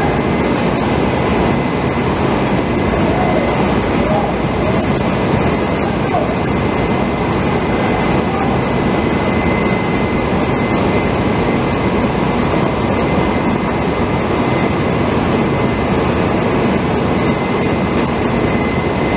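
Steady, loud machinery drone with a thin constant whine running through it.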